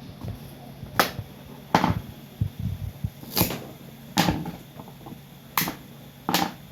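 Six sharp knocks at uneven intervals, roughly a second apart, from hand work on a boot sole, over a low steady hum.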